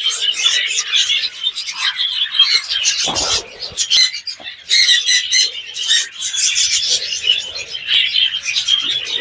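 A colony of budgerigars chattering and chirping densely and continuously, many birds calling over one another. A brief rustle about three seconds in.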